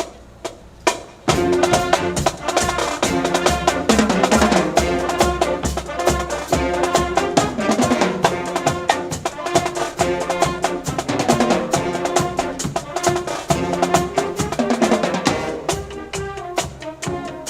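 Brass band playing with drum kit, bass drum and snare: a few single drum hits, then about a second in the full band comes in with a steady driving beat under brass.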